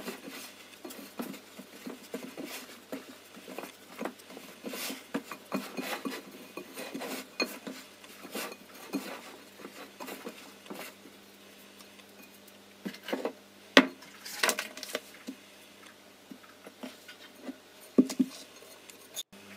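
Hands kneading soft yeast dough in a glass mixing bowl: irregular sticky squishing and patting, with the bowl knocking and clinking now and then, and a few sharper knocks in the second half.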